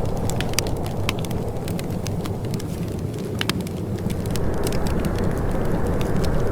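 Wood fire crackling and popping in a fireplace, with many sharp irregular snaps over a steady low rushing noise that grows a little louder about four seconds in.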